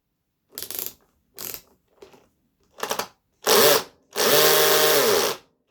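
Handheld power drill run in five short bursts, the motor spinning up and winding down each time; the last burst runs for about a second and is the loudest, as when driving or removing screws.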